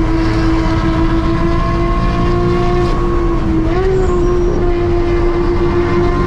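Engines at sustained high revs, heard from inside a roll-caged BMW M3's cabin: a loud, constant drone from the M3's V8, mixed with the JCR-exhausted Porsche 911 GT3 RS running just ahead. The note wobbles up briefly a little under four seconds in.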